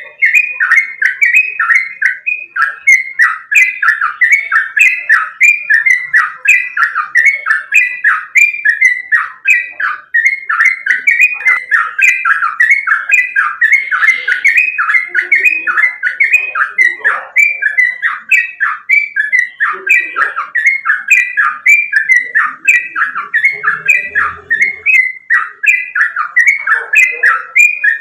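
Yellow-vented bulbul (trucukan) singing a fast, unbroken series of loud, short falling notes, about three a second.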